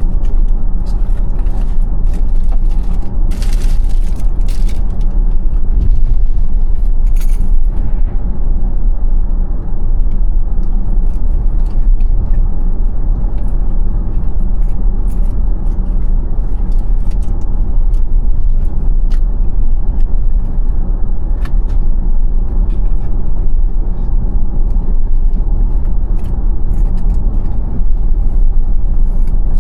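Steady low road and tyre rumble inside the cabin of a moving 2021 Tesla Model Y, with a few brief rustles and light clicks about three to five seconds in and again near seven seconds.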